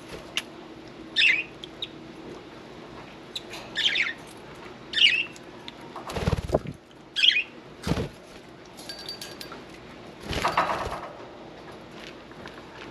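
Pet budgerigars bathing: about four short, high chirps, with bursts of wing flapping, the longest about ten seconds in.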